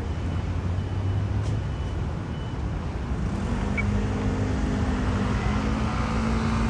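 Street traffic: a steady rumble of passing road vehicles, with one vehicle's engine hum coming in about halfway through and growing slightly louder.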